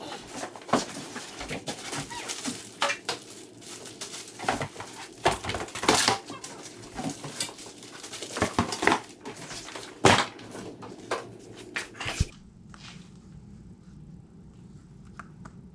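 Cardboard box and plastic packing being opened and handled: crackling, rustling and a string of sharp knocks and clunks, loudest about six and ten seconds in. About twelve seconds in it cuts off sharply to a quiet steady low hum.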